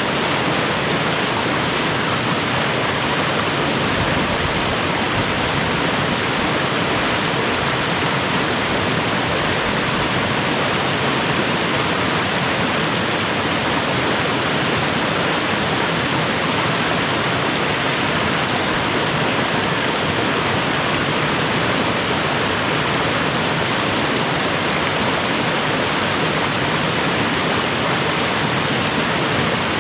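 Mountain creek water rushing steadily, an even hiss with no breaks.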